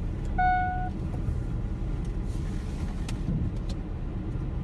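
Strong wind buffeting the microphone, a constant low rumble. About half a second in comes a single short, steady beep.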